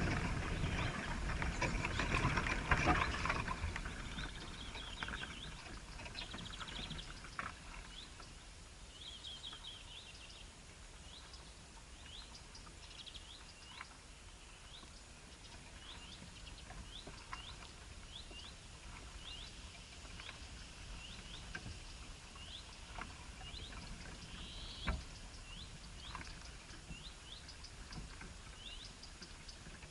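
A bird repeating short, high chirps about once a second. The first few seconds are covered by a louder rustling noise, and there are a few sharp clicks, one stronger about 25 seconds in.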